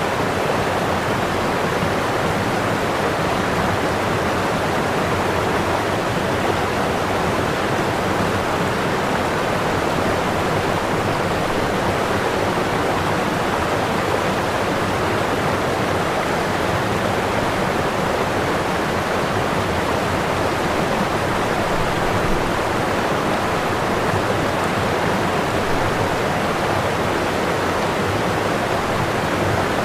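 Waterfall: whitewater pouring over the falls in a steady, even rush.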